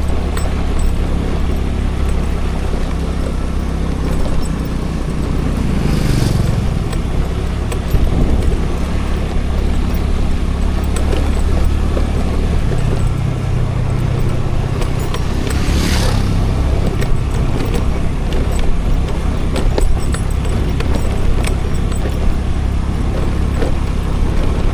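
Scooter running along the road with steady engine hum and road and wind noise, its engine note dropping about six seconds in. There are two brief rushes of noise, about six and sixteen seconds in, and scattered light rattles throughout.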